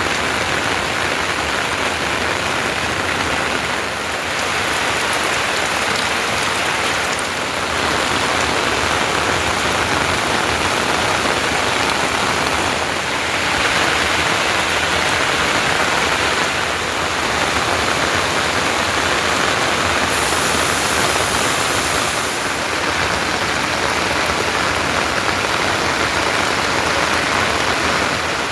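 Rain falling steadily, a dense even hiss that shifts slightly every few seconds.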